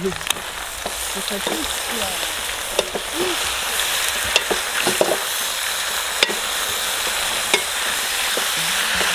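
Meat and vegetables sizzling in a kazan over a fire, with the steady hiss of frying and sharp metal clinks now and then as a knife and ladle stir the pot.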